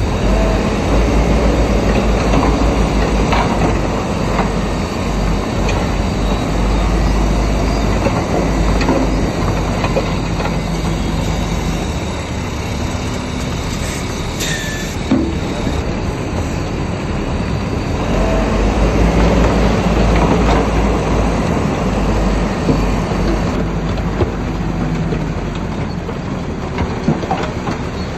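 Bulldozer's diesel engine working, with its steel tracks clanking and squealing. The engine rises and falls twice under load, and there are scattered knocks and scrapes.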